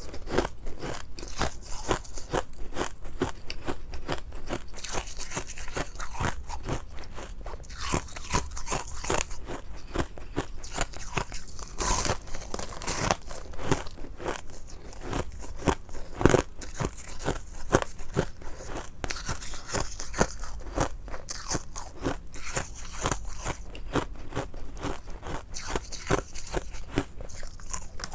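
A person biting and chewing ice, close to the microphone: a dense, irregular run of crunches and cracks, with a few louder cracks along the way.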